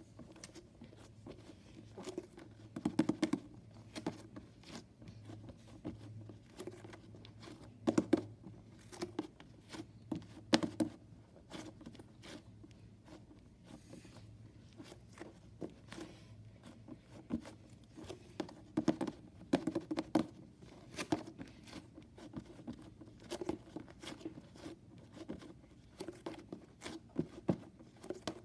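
A soft squishy toy and slime being squeezed and pressed by hand, giving irregular sticky crackles, clicks and squelches in bouts.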